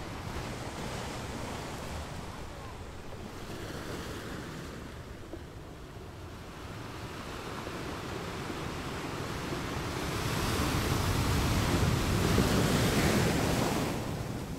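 Sea waves breaking on a shore, the wash of surf swelling and ebbing; a bigger wave builds and breaks about two-thirds of the way through, then recedes near the end. Some wind noise on the microphone.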